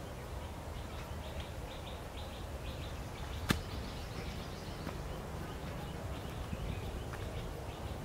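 A bird calling in quick runs of short, evenly repeated high chirps, pausing midway, over the low rustle of someone walking on a leafy trail. A single sharp click sounds about halfway through.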